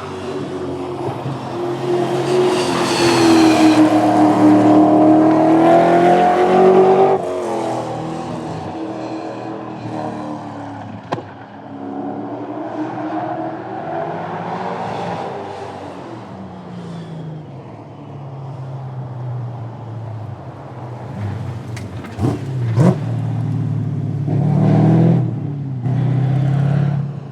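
Drag-racing car engines: one car accelerates hard and is loudest in the first several seconds, then its sound drops off quickly. Quieter engine sound follows, with a couple of sharp pops later, and another engine revving near the end.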